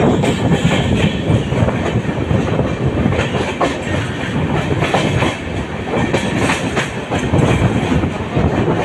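Passenger train coaches passing close by on the next track, their wheels clattering steadily over the rail joints.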